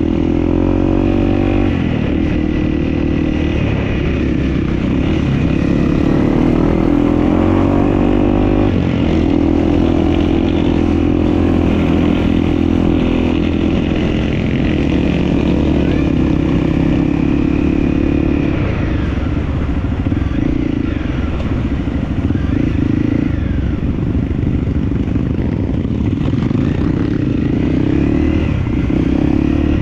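Dirt bike engine running under way, its revs climbing and dropping with gear changes, with a rising rev about a second in and again around eight seconds in.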